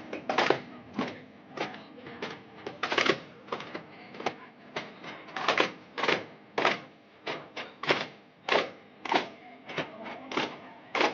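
Daf frame drums beaten in a steady daffmuttu rhythm, a little under two sharp strikes a second, some strikes doubled.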